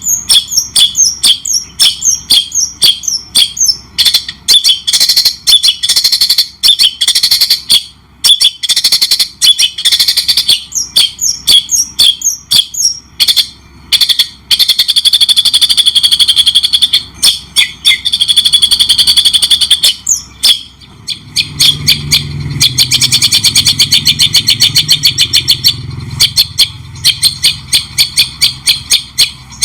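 A songbird singing loud, rapid strings of sharp chirps and trills with only brief pauses. For about five seconds past the middle, a low rumble lies under the song.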